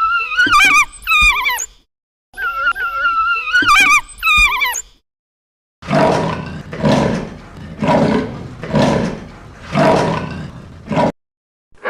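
Animal calls: two bouts of high, wavering calls that slide up and down in pitch, then a run of five deep, rough calls about a second apart.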